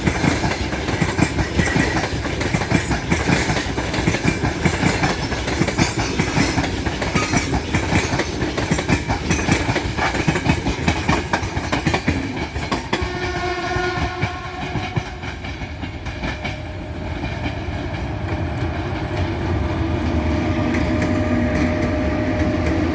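Freight train rolling past behind a 3ES5K Ermak electric locomotive: heavy rumble with wheels clattering over rail joints. About thirteen seconds in, the clatter fades and steady pitched tones take over, one tone held near the end.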